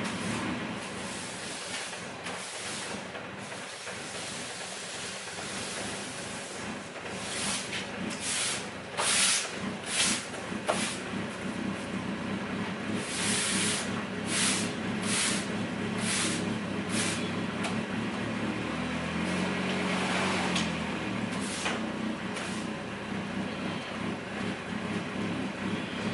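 A car engine running steadily at idle, with a string of short, sharp hisses over about ten seconds in the middle.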